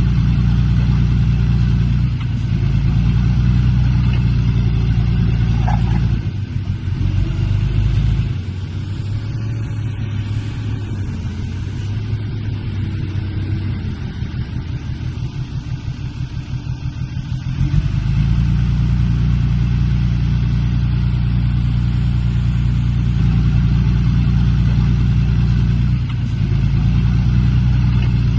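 Heavy diesel engine of an earthmoving machine, a dump truck or bulldozer, running hard. About 8 seconds in it drops to a lower, pulsing idle for about ten seconds, then pulls loud again.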